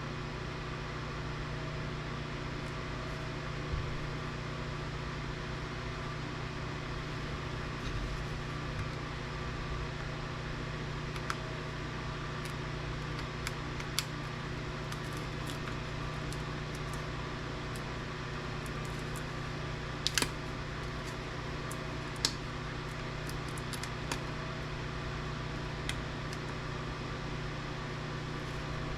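Steady fan-like hum, with a few sharp clicks and taps as plastic and metal parts of a UPS circuit board and LCD display are handled and pried apart.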